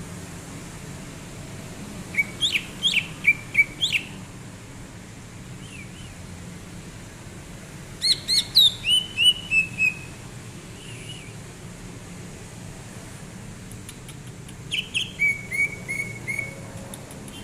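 Cucak ijo (green leafbird) singing three phrases. Each phrase is a quick run of sharp up-and-down whistled notes followed by a short string of repeated notes, with steady low background noise between the phrases.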